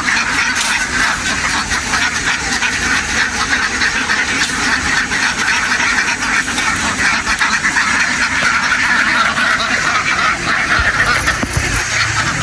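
A large flock of domestic ducks quacking continuously, many birds at once in a dense, unbroken chorus.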